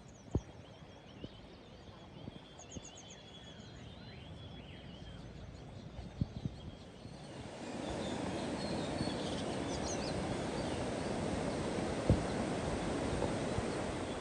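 Small birds chirping and trilling faintly, with a few sharp knocks; about halfway through, a steady rushing noise rises and covers them.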